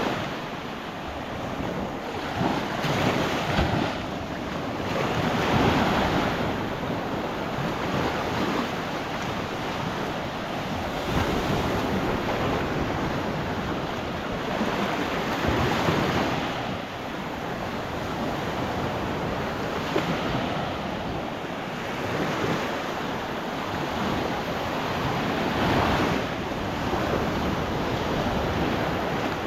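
Waves rolling onto a sandy shore, the wash swelling and easing every few seconds, with wind buffeting the microphone.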